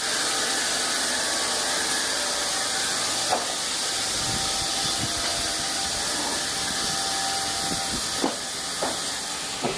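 Steady hissing noise with a faint held tone and a few short knocks.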